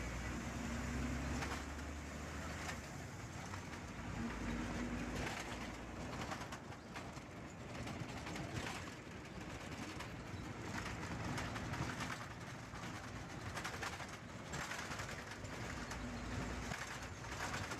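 Bus running along a road, with a steady engine and road rumble and a low hum that comes and goes every few seconds.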